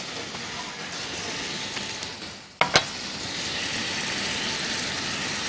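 A crepe and diced apples sizzling steadily in frying pans on a gas hob. A couple of sharp clicks come a little past halfway.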